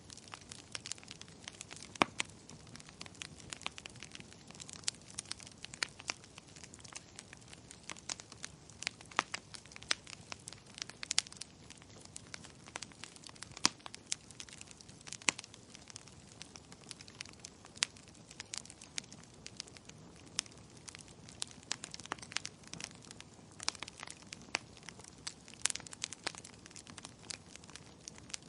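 Wood fire crackling in a fireplace: a steady run of irregular sharp pops and snaps over a soft hiss, with a few louder pops scattered through.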